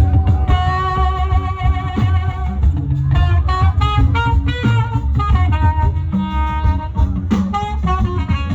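Live band playing an Afrobeats groove, with heavy bass and drums under a lead melody of long held notes, some about two seconds long.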